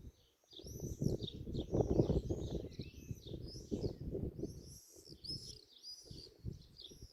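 Many small birds chirping at once, a dense run of short, quick high calls that overlap without pause, over a louder low rumble that swells and dies away irregularly.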